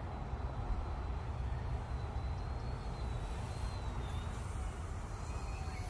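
Faint high whine of a small RC helicopter's electric motor and rotor, its pitch wavering as the throttle changes, over a steady low rumble.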